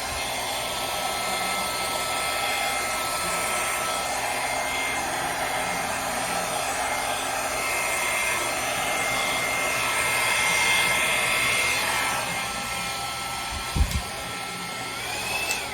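Handheld hair dryer, a Flower by Drew Barrymore model, running steadily on its low setting as it blows wet acrylic paint across a canvas. There is a brief low thump about 14 s in, and the dryer switches off right at the end with a short rising whine.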